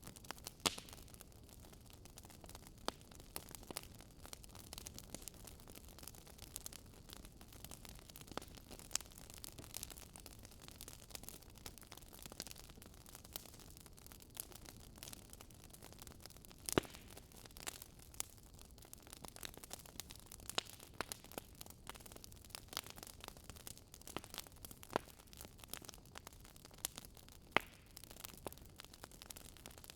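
Wood fire crackling: a faint steady hiss with frequent irregular sharp pops and snaps, a few of them louder than the rest.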